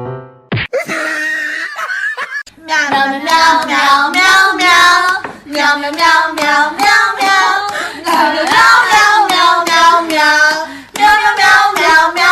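A single voice making singing-like sounds in long, wavering notes with short breaks, starting about two and a half seconds in. Before it come a sharp click and a stretch of hiss.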